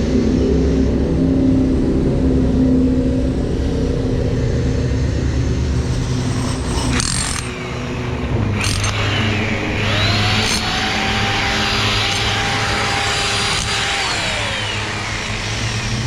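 An engine running steadily on a construction site, with two sharp knocks about seven and nine seconds in. Then a motor whine rises, holds steady for about five seconds, and winds back down.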